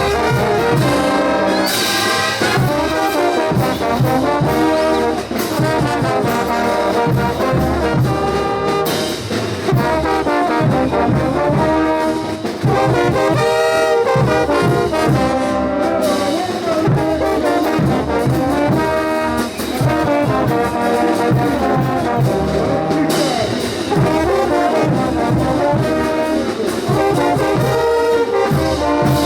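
Bolivian brass band playing a ch'uta carnival tune: trumpets and trombones carrying the melody together over a steady drum beat.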